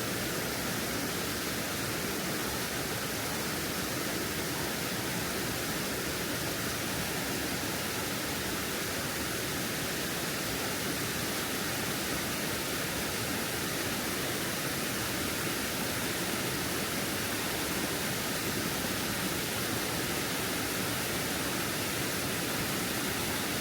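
Elabana Falls, a waterfall running full: a steady, even rush of falling water.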